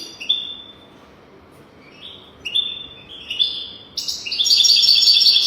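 European goldfinch singing: a few short, bright notes with pauses, then from about four seconds in a loud, fast, twittering run of rapid notes.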